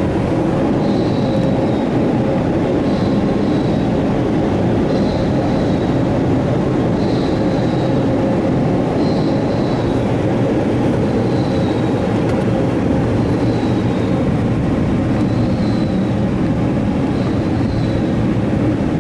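Blowers of a Ryko Radius HT touchless car wash's onboard dryer running steadily, heard from inside the car's cabin. A faint short high chirp repeats about every two seconds.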